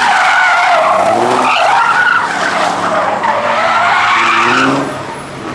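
Car tyres squealing continuously as a car drifts, with the engine revving underneath. The squeal wavers up and down in pitch and dies away near the end.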